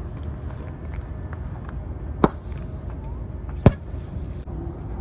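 Two sharp firework bangs about a second and a half apart, the second louder, over a steady low background rumble.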